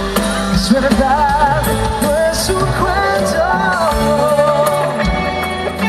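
Live pop band music, a wavering lead melody over bass and drums.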